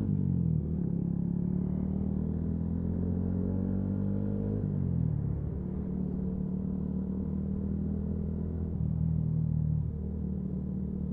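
Yamaha MT-125's single-cylinder engine running under way. Its pitch dips and recovers about half a second in and again around five seconds in, then holds steady.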